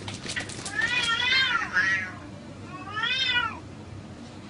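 Domestic cats yowling in a standoff during a fight: two long wavering cries that rise and then fall in pitch, one about a second in and another near three seconds, with a few sharp clicks just before the first.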